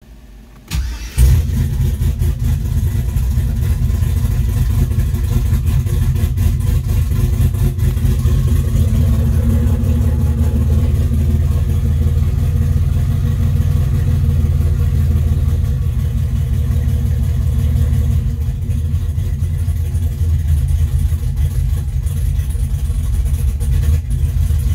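LS V8 engine in a Jaguar XJ8 started by push button, catching about a second in, then running steadily.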